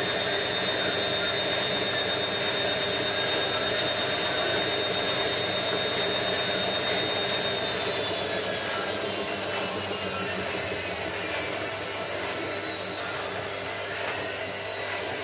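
Hotpoint 9534A washing machine spinning: a steady high whine from the motor and drum that starts falling in pitch a little over halfway through as the spin slows down.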